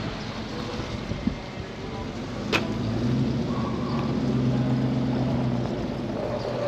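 A motor vehicle engine running at a steady low hum that comes in about three seconds in and eases near the end, over outdoor background noise, with one sharp click just before it.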